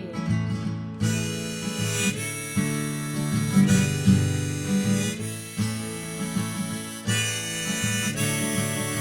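Instrumental break in an indie folk song: a harmonica plays sustained notes, changing about once a second, over a strummed acoustic guitar.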